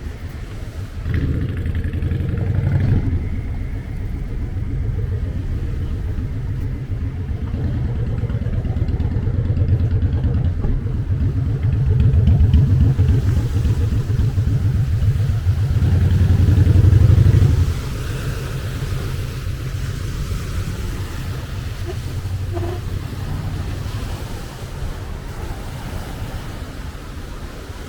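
A nearby engine running with a low, pulsing rumble. It grows louder to a peak about two-thirds of the way through, then drops away sharply, leaving a fainter rumble.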